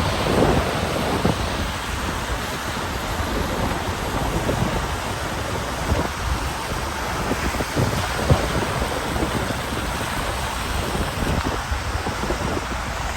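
Steady rain falling, a dense hiss with a constant low rumble beneath it.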